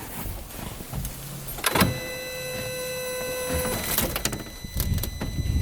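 Polaris Ranger 570 being turned over for a spark test: clicks, then a steady electric motor whine for about two seconds, then the engine starting to crank with its spark plug out near the end.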